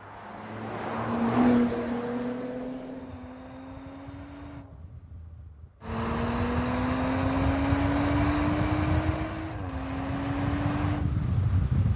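2018 Audi RS5's twin-turbo V6 accelerating: the car passes by with its engine note climbing and loudest about a second and a half in. After the sound cuts out for about a second near the middle, the engine pulls again with a slowly rising note that dips once near the end.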